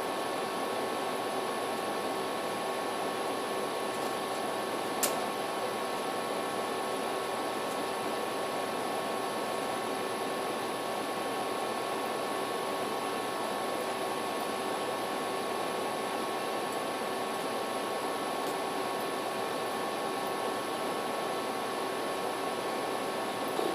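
Steady background hiss and hum with a few faint steady tones, and a single click about five seconds in.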